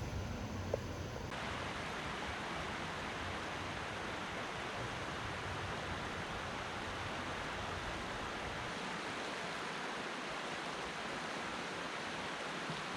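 Steady rush of a fast-flowing creek running over rapids, with a short click about a second in.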